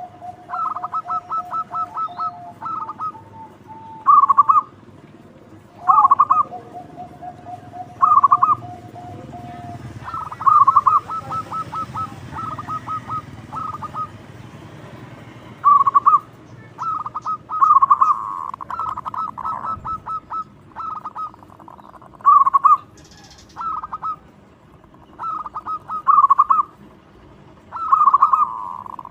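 Zebra dove (perkutut) cooing in repeated short, rapid staccato phrases every second or two. A long steady lower tone is held twice in the first ten seconds.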